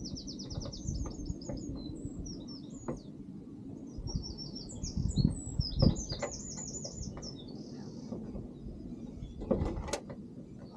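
Small birds chirping in quick repeated trills throughout, over a low rumble. A few sharp knocks, the loudest sounds, come about five to six seconds in and again near the end, from the car door being handled onto its hinges.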